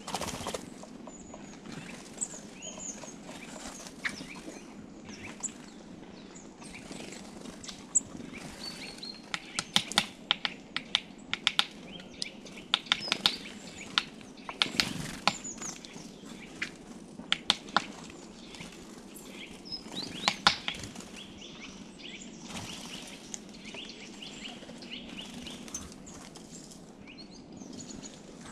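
Small songbirds giving short, high chirps and calls, with clusters of sharp taps and clicks through the middle stretch.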